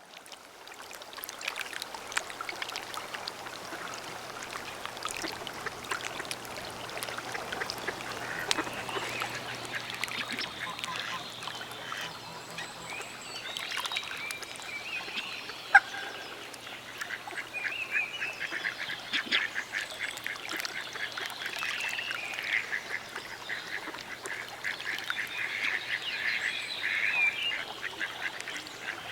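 A flock of waterfowl calling all at once, a dense chorus of many short overlapping calls that runs on without a break. A single sharp click stands out about sixteen seconds in.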